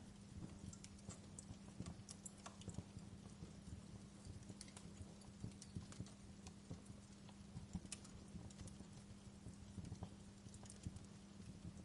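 Wood fire in a fireplace crackling, with irregular small snaps and pops a few times a second over a soft steady hum.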